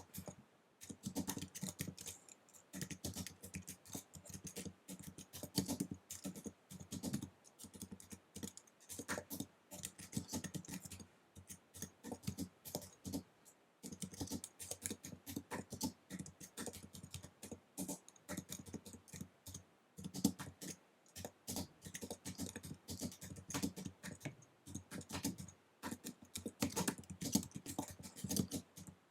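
Fast typing on an Apple wireless keyboard: a rapid, uneven run of key clicks, broken by a few short pauses.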